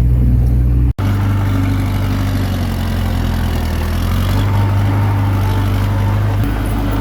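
Diesel engine of a Komatsu D21P small bulldozer running steadily under work, with a brief dropout about a second in.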